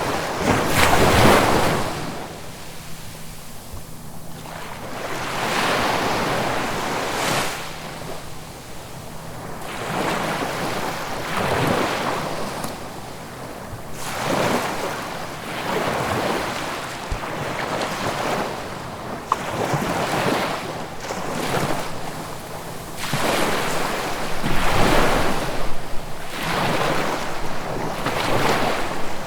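Ocean waves breaking and washing in, swelling and fading in irregular surges every few seconds.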